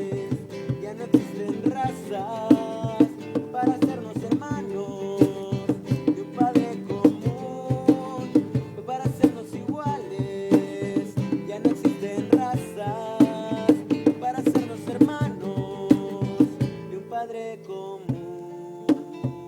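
Strummed guitar playing a worship-song accompaniment with a steady percussion beat, an instrumental stretch between sung verses. The strumming thins out to a few lighter strokes near the end.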